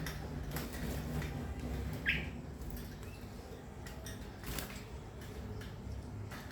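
A pet bird gives one short, sharp call about two seconds in, over faint clicks and rustling.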